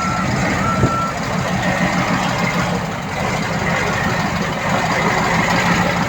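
A heavy construction machine's reversing alarm beeping in single-pitch beeps about a second apart, stopping about a second in, over the steady running of its diesel engine.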